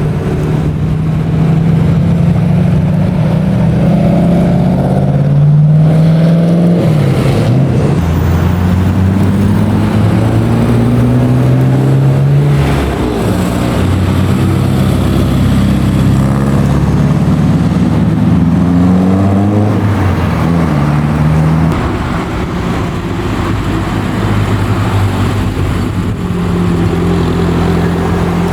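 Several classic car engines running at once, loud throughout, their pitch rising again and again as they rev and pull away, with a slight drop in level a little over two-thirds of the way in.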